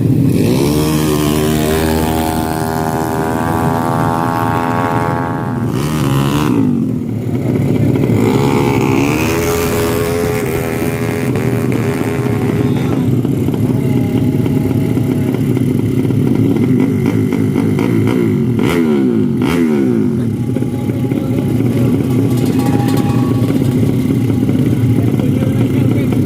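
Drag-racing motorcycle engines running hard over a steady engine drone, with a bike's rising pitch as it revs and pulls away at the start, again about eight seconds in, and once more near eighteen seconds.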